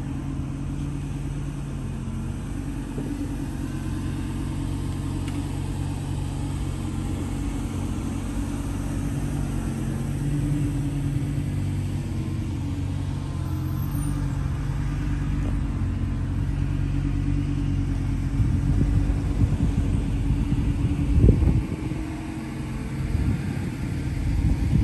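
A 2012 Porsche 911 Carrera 4 GTS's 3.8-litre flat-six idling steadily, a low, even hum. Wind buffets the microphone a few times near the end.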